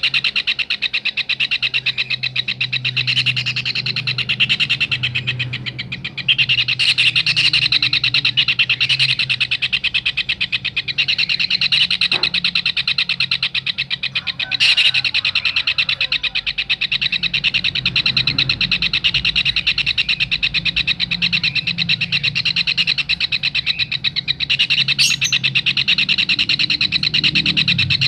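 Kingfisher (tengkek raja udang) calling in a long, rapid, high-pitched trill, broken only briefly about six seconds in and again near the end. A steady low hum runs underneath.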